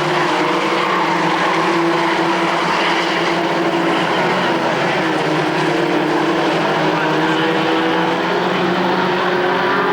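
Several race truck engines running at speed around the short track, their overlapping notes steady, rising and falling slightly.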